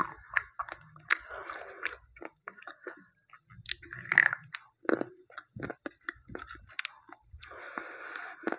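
Slate pencil being bitten and chewed close to the microphone: a series of sharp crunches, loudest about four seconds in, turning to a denser grinding chew near the end.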